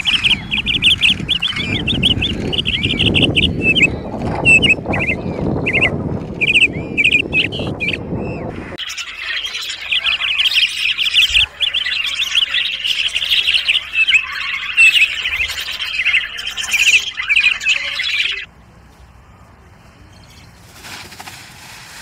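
Gulls' rapid repeated calls over heavy low rumbling noise, then, after a cut about nine seconds in, a budgerigar's dense, continuous chattering warble. The warble cuts off about three seconds before the end, leaving only quiet background.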